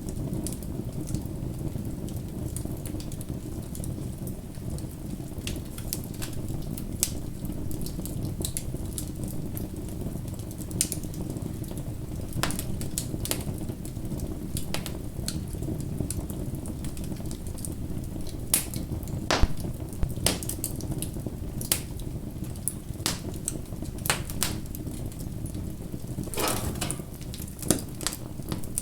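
Wood fire burning with a steady low rush of flames and irregular sharp crackles and pops, a few louder snaps about two-thirds of the way through and near the end.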